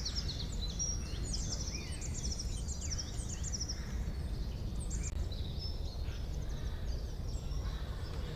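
Several wild songbirds chirping and singing rapid high trills, calls overlapping through the stretch, over a steady low rumble of background noise.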